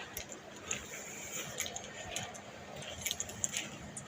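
Light, irregular clicking and jingling: handling noise from a phone carried by someone walking, with small clicks every fraction of a second.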